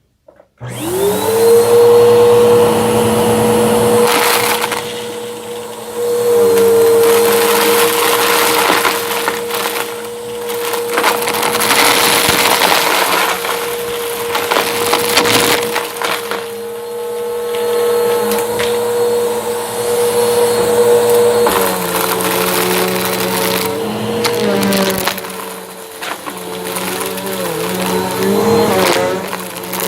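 A Bissell vacuum cleaner switches on about half a second in, its motor spinning up to a steady whine, while the brushroll crunches and crackles through debris. The motor note drops slightly about two-thirds of the way through.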